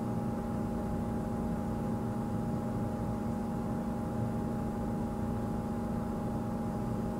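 Safari game-drive vehicle's engine idling: a steady, even hum that does not change.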